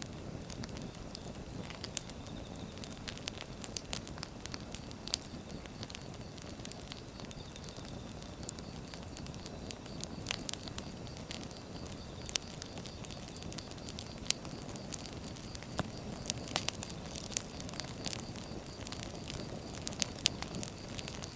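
Firewood burning in a fire, a steady low hiss of flame with irregular crackles and sharp pops of the burning wood throughout, a few pops louder than the rest.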